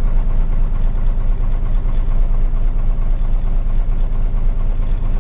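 Diesel truck engine running steadily, heard from inside the cab, with a dense low rumble and no change in pace.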